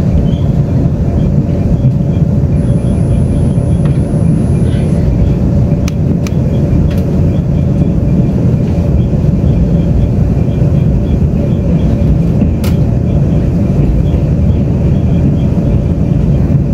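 Inside a Taiwan Railways Tze-Chiang express passenger car running at speed: a loud, steady rumble of wheels on the track with a constant hum. A few sharp clicks come through, about six and twelve seconds in.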